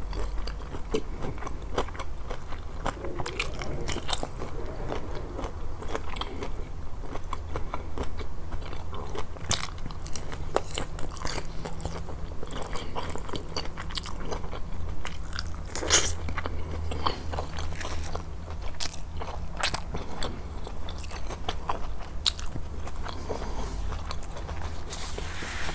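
Close-miked eating of grilled fish: chewing and biting with scattered crisp crunches, the loudest about 16 seconds in.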